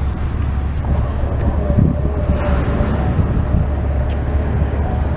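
Steady low rumble of a train that has just cleared a railroad grade crossing, mixed with idling road traffic, while the crossing gates lift.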